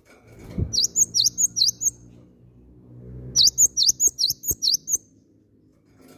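Cinereous tit (gelatik batu) singing: two phrases of quick repeated high, sweeping notes, four or five notes each at about three a second, with a short pause between them. A faint low hum runs underneath.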